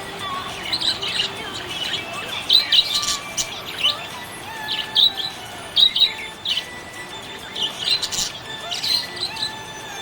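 Budgerigar chirping: a run of short, high chirps, irregular and coming in clusters with brief pauses.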